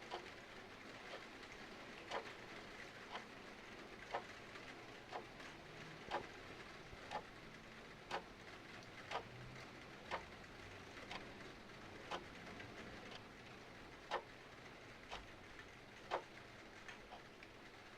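A clock ticking about once a second over a steady patter of rain, with a few faint, irregular crackles from a fireplace.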